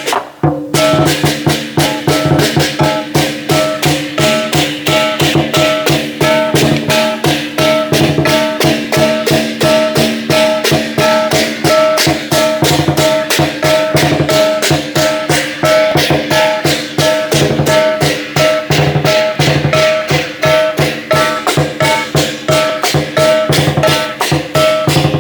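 Chinese lion dance percussion ensemble: a drum with clashing cymbals and a gong, struck in a fast, steady beat of about four or five strikes a second. It breaks off for a moment just after the start, then plays on without pause.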